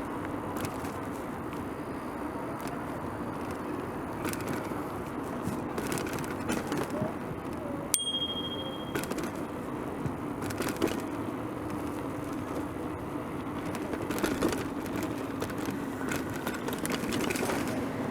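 Bicycle riding along: a steady tyre and wind rush with scattered rattling clicks. About eight seconds in, a bicycle bell rings once with a short clear ring.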